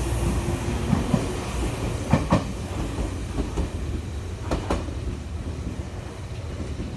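Meitetsu 3300 series electric train pulling away, its wheels clacking over rail joints in two quick pairs, about two seconds in and again about four and a half seconds in, as the rumble of the train fades.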